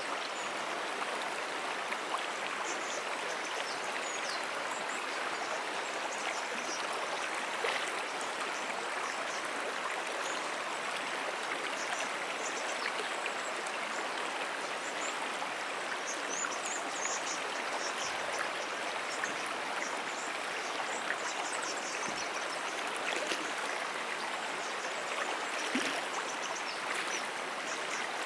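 Brook water flowing: a steady, even rush with no breaks, with faint short high chirps scattered through it.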